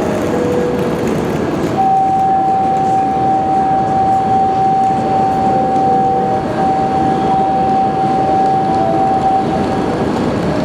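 Shinkansen train running through the platform, a steady rumble of train noise. A single high steady tone starts about two seconds in and is held for roughly eight seconds, with a brief break near the middle.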